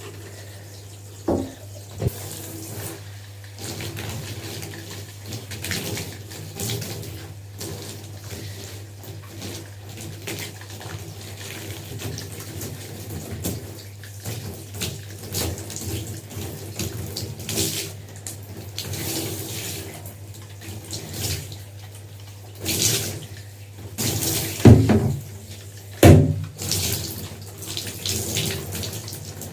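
Water running steadily from a tap during hair washing, with a few sharp knocks, the loudest a few seconds before the end.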